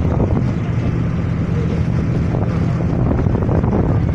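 Passenger ferry's engine running steadily, a low constant drone, with wind buffeting the microphone.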